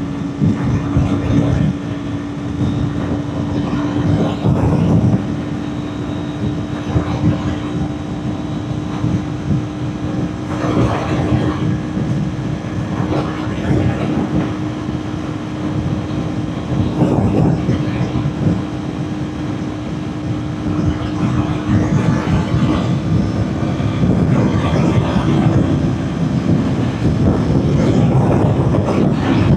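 Kawasaki Ninja 400's parallel-twin engine running at steady high revs, with heavy wind buffeting on the microphone rising and falling over it.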